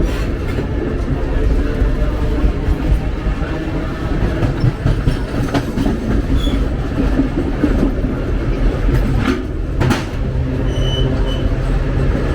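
Open-air passenger railcar rolling along the track: a steady rumble of wheels on rail, with two sharp clacks about nine to ten seconds in.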